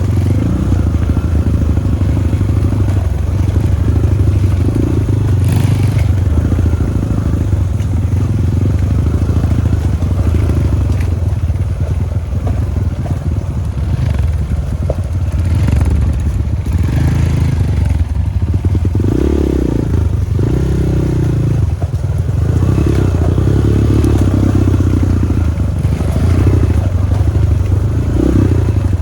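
Dirt bike engine running continuously, its note swelling and easing now and then as the throttle changes.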